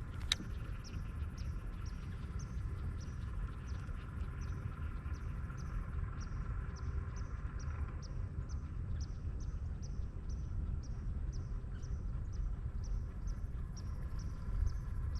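Insect chirping in a steady rhythm, about three short high chirps a second, over a low rumble of wind and water, with one sharp click just after the start.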